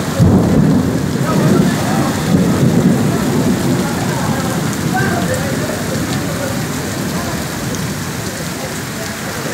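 Heavy rain pouring on a wet street, a dense steady hiss. A low rumble sits under it over the first few seconds and then eases.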